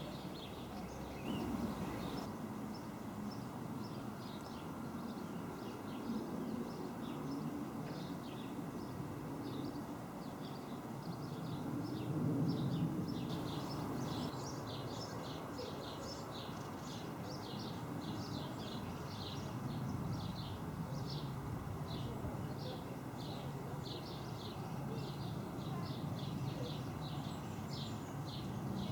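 Steady low rumble of a distant jet airliner passing overhead, with a small bird chirping about twice a second through the second half.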